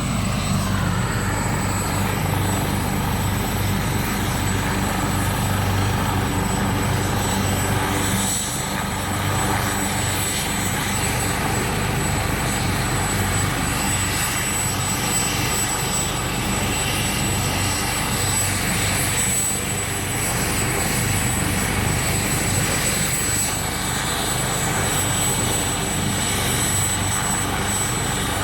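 Maryland State Police medevac helicopter, a twin-turbine AW139, running steadily. The rotor's low beat sits under a thin, steady high turbine whine.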